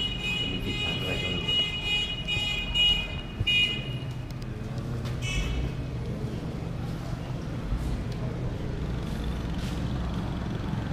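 A motor vehicle engine running with a steady low hum. A high, thin, steady tone sounds over the first three and a half seconds and briefly again about five seconds in.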